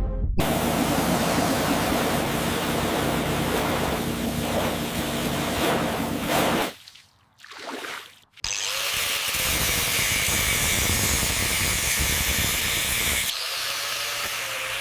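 Loud, steady hissing noise of restoration work, like spraying or a power tool. It breaks off for about a second and a half some seven seconds in, then starts again and eases somewhat near the end.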